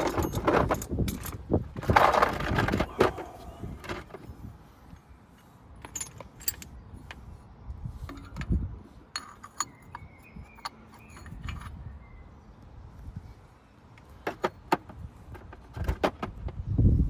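Metal tools and brake parts clinking and knocking as they are handled, in irregular scattered clicks with a busier clatter about two seconds in.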